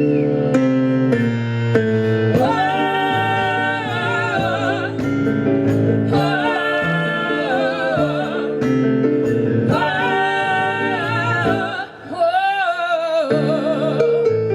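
A live band plays a song, with guitar accompaniment under long held melody notes with vibrato, which come in phrases of about two seconds. The music drops briefly near the end, then comes back.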